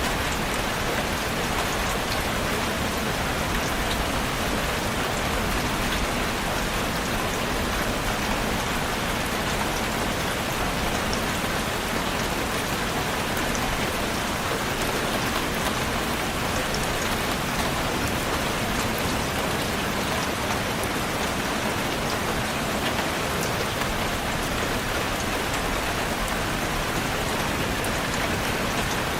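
Steady rain falling, an even hiss of many raindrops with faint scattered individual drop ticks.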